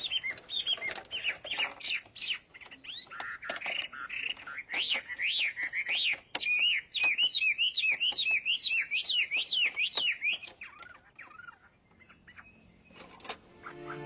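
A bird chirping in quick, repeated rising-and-falling calls that stop about ten seconds in, with a few scattered clicks.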